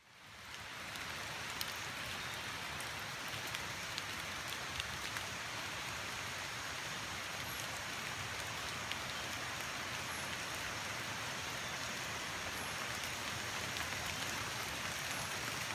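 Steady rainfall, an even hiss with scattered drop ticks, fading in over the first second. A few faint, short, high chirps sound over it.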